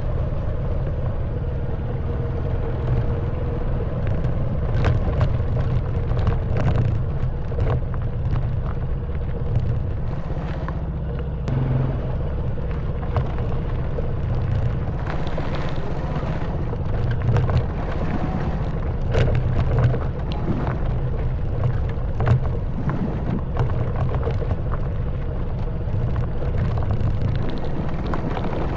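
Honda Wave 110cc single-cylinder four-stroke engine running steadily at low speed, with many short knocks and rattles from the bike jolting over a rough stone and mud track.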